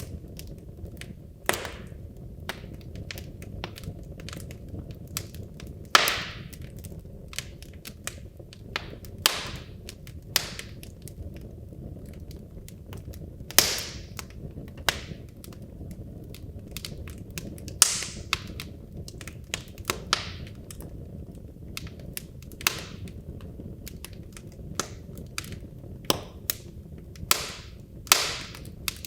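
Wood logs burning in a fireplace: a steady low rumble of flame with frequent sharp, irregular crackles and pops, several of them loud snaps.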